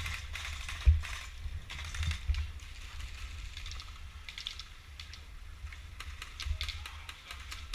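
Scattered irregular clicks and rattles over a low rumble, with a sharp knock about a second in: the handling and gear noise of an airsoft player on the move.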